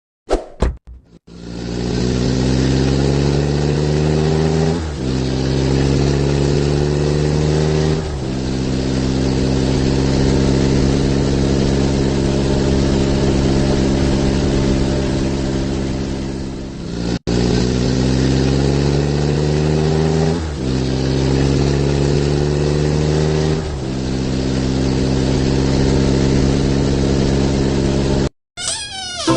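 Truck engine accelerating through the gears, its pitch rising and then dropping back at each gear change before settling to a steady run; the same sequence starts again about halfway through, after a brief break. A few short clicks come right at the start.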